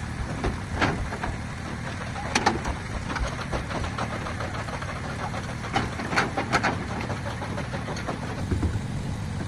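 An engine idling steadily, with a few sharp knocks and clicks over it, the loudest cluster about six seconds in.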